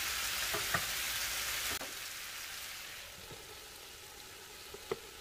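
Chicken, peppers and onions sizzling as they fry in a skillet. The sizzle drops off sharply a little under two seconds in and goes on faintly, with a light clink near the end as a glass lid is set on the pan.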